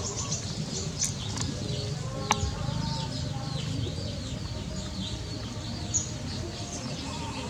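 Birds chirping and calling over a steady low background rumble.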